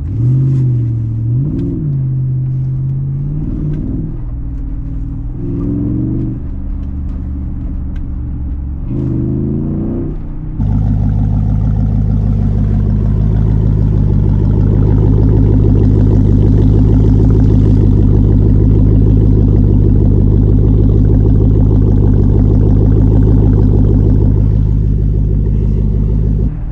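Jeep Grand Cherokee SRT8's 6.1 HEMI V8 through a Borla exhaust with the mid-muffler deleted, revved in about four short blips. About ten seconds in it changes abruptly to a louder, steady drone at constant revs, which stops just before the end.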